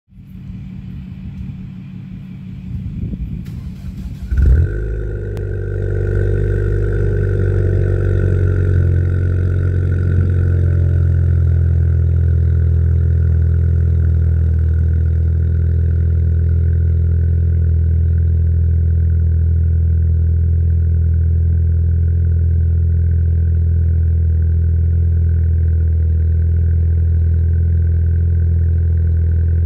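2019 Ford Fiesta ST's turbocharged 1.5-litre three-cylinder starting cold through an MBRP cat-back exhaust. It cranks, catches with a loud flare about four and a half seconds in, then settles into a steady cold-start fast idle.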